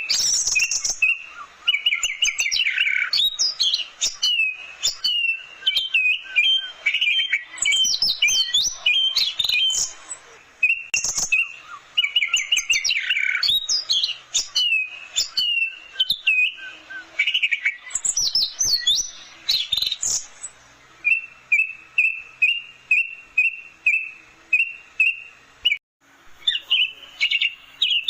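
Orange-headed thrush singing: fast, varied phrases of sliding whistles and chirps, with a long run of evenly repeated short notes in the second half.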